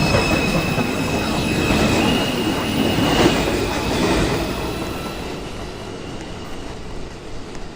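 A New York City subway 2 train pulling into the station and braking, wheels squealing on the rails. The noise fades as the train slows to a stop.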